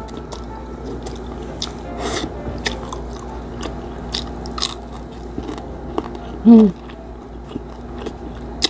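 Close-up crunching and chewing of crispy fried milkfish (bangus), eaten by hand, with scattered sharp crackles as the fried skin breaks. A short hummed "mm" from the eater comes about two-thirds of the way through.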